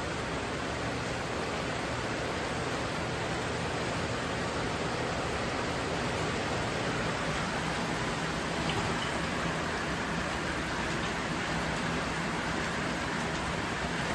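Steady rain falling, a continuous even hiss with no change in strength.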